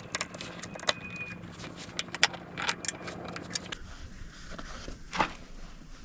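Metal clicks and clinks of tools and parts being handled as the ATV's left crankcase cover is worked off, a quick run of them for the first three or four seconds, then a single knock about five seconds in.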